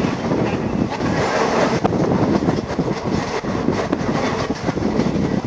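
Passenger train running along the track, heard from a coach window: a steady rumble of wheels on rail with occasional clicks.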